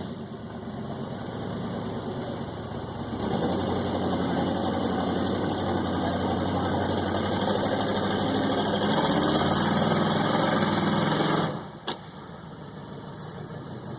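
Mud truck's engine running under heavy throttle. It gets much louder about three seconds in, holds for about eight seconds, then drops back sharply near the end.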